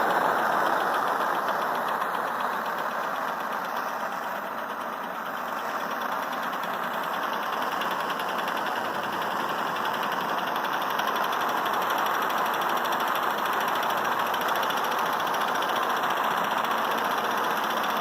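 Small all-metal Stirling engine running steadily with a fast, even ticking, over the steady rushing of a burning jet stove that heats its hot cap.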